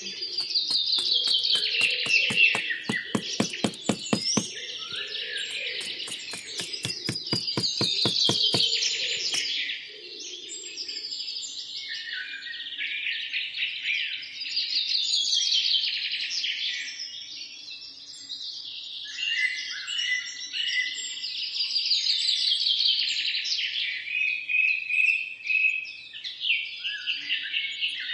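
Songbirds singing and chirping, with a repeated falling trill. A fast, regular clicking runs through the first ten seconds or so.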